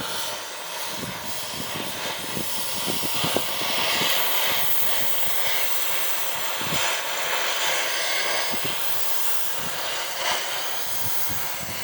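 Gas torch flame hissing steadily while heating a steel undercarriage part red-hot, with a few faint metal knocks.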